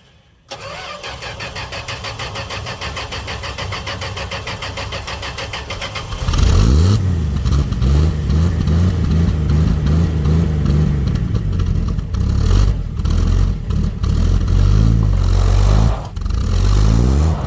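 Dodge D100 pickup's slant-six engine cranking on the starter with an even pulsing for about six seconds, then catching and running loudly, its speed rising and falling.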